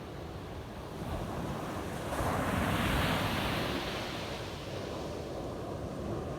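Ocean waves breaking on a beach: a steady wash of surf, with one wave swelling and crashing about two seconds in, then fading back to a hiss.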